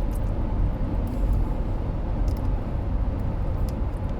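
Steady low rumble of a car driving, heard from inside the cabin, with a few faint short ticks over it.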